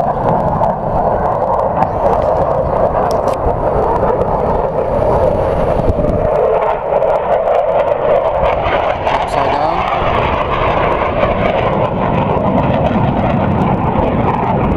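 Jet aircraft engine noise during a flying display: a loud, steady rush that dips slightly in pitch about halfway through as the aircraft moves.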